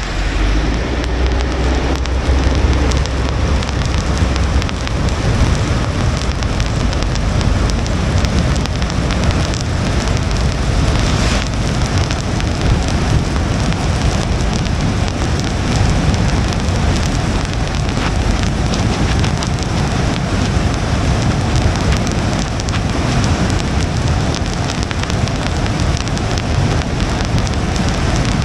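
Rain falling on a car's windshield and roof, a steady hiss with many small drop ticks, over a low road rumble that is heaviest in the first few seconds.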